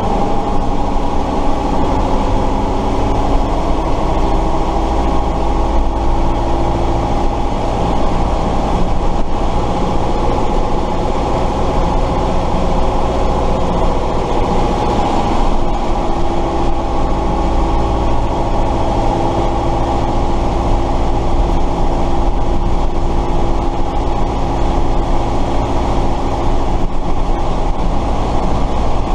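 Tatra 138 fire truck's air-cooled V8 diesel engine running steadily while driving, heard from inside the cab, its note shifting only slightly in pitch.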